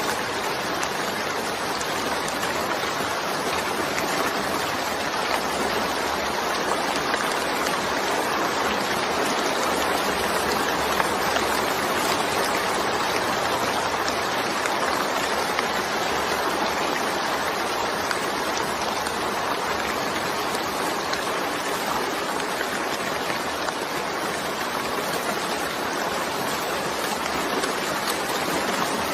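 Steady rain falling, an even, unbroken hiss with no distinct drops or thunder standing out.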